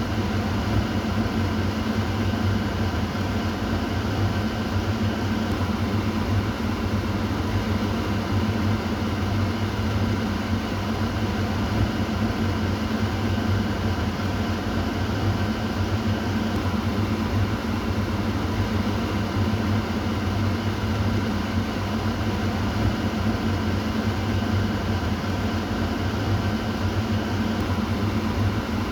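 Kitchen exhaust fan running steadily: a constant low hum with a whooshing rush of air over it.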